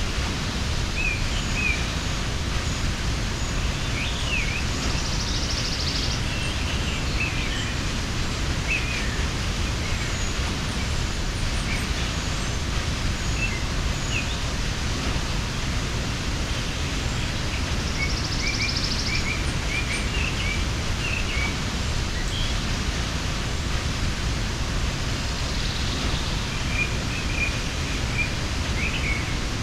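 Mountain waterfall falling steadily, with small birds chirping in short scattered bursts over it.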